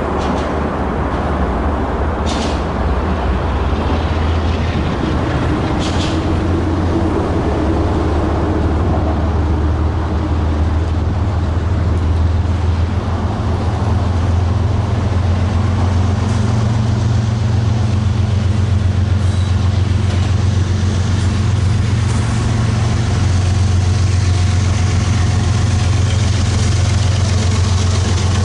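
Diesel locomotive engine running steadily with a deep, heavy drone that gets a little louder about halfway through. Two short hisses, about two and six seconds in.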